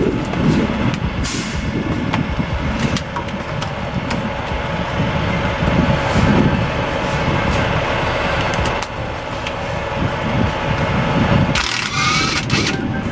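Heavy truck engine idling steadily, with short hisses of released air: a brief one about a second in and a louder one near the end.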